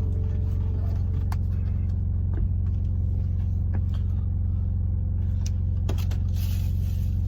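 Semi-truck engine idling, a steady low hum from inside the cab, with a few light clicks and knocks over it.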